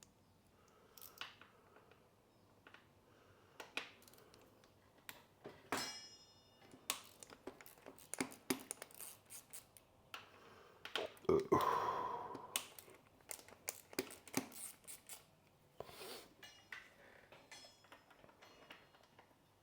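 Metal hand tools and parts being handled: scattered clicks, taps and light clinks, with a louder stretch of rattling and scraping about eleven seconds in.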